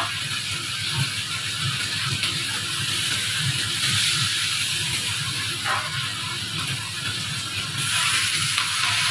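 Greens sizzling in a hot steel wok over a gas burner: a steady hiss with a low rumble underneath, and one light knock a little past halfway.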